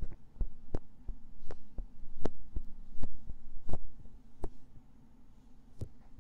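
ASMR ear-cleaning sounds on an ear-shaped binaural microphone: a dozen or so irregular, close taps and scrapes, each with a dull low thump, over a faint steady hum.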